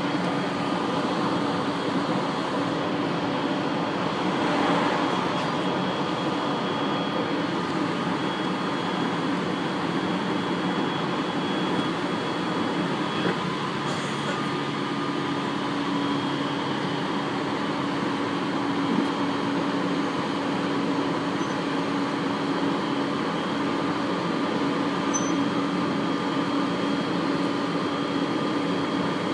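Aoimori Railway 701-series electric train running at speed, heard from inside the passenger car: a steady running noise of wheels on rail with a constant low hum.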